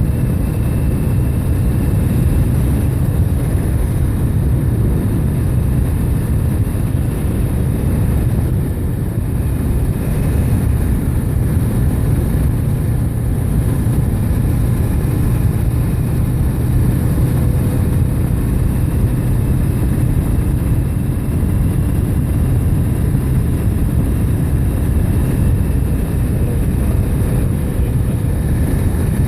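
Steady low rumble of wind on the microphone with engine and road noise from a motorbike riding at speed.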